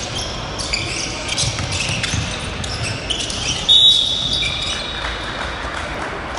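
Basketball game on a gym court: a ball bouncing and sneakers squeaking, with a sharp held high whistle blast, likely the referee's, about four seconds in, the loudest sound, echoing in the hall.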